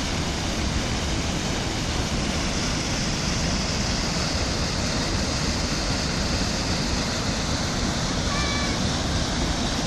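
The Barada River's water rushing steadily, an even, unbroken roar of flowing water. A brief high call sounds once near the end.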